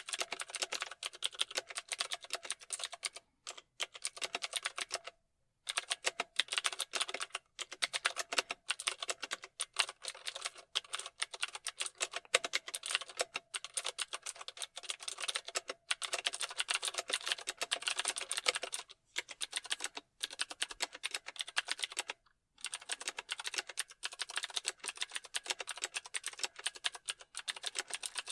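Typing on a computer keyboard: rapid runs of key clicks, broken now and then by short pauses.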